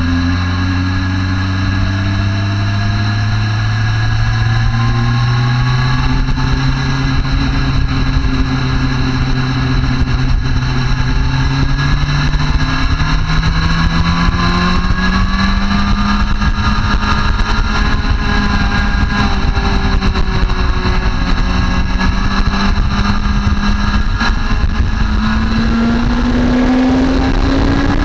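Motorcycle engine running under steady throttle, its pitch climbing slowly, easing back, then climbing again near the end, with a constant rush of wind noise.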